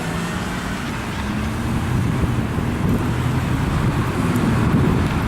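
Road traffic: motor vehicle engines running steadily with tyre and road noise.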